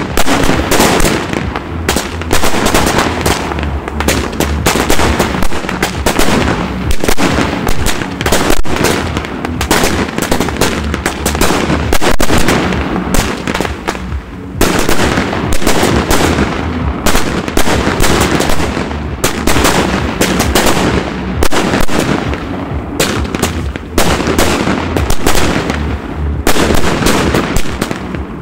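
Fireworks barrage: many shots fire in quick succession and overlap into a near-continuous run of bangs and crackling, thinning briefly about halfway before building again.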